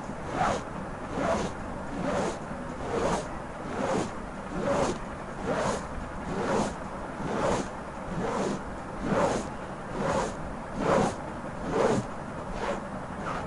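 Close-miked fingernail scratching, raked over the microphone in even, repeated strokes a little more than one a second.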